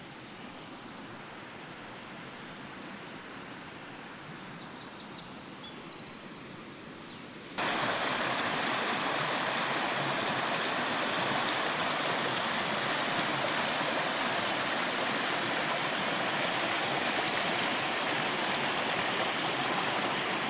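Steady outdoor rushing noise like running water, fainter at first with a few faint high chirps, then cutting abruptly to a louder, even rush about seven and a half seconds in.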